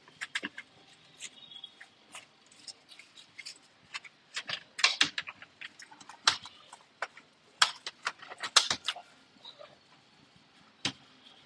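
Irregular small clicks, taps and scrapes of hands and cleaning tools on an opened laptop's case and parts, some in quick clusters.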